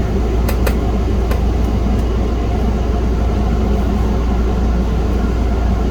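Steady low hum throughout, with a few light clicks in the first two seconds as cable plugs are handled and pushed into their sockets.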